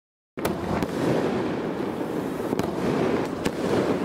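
Aerial fireworks bursting: a dense, continuous crackle starts suddenly about a third of a second in, with several sharp bangs standing out above it.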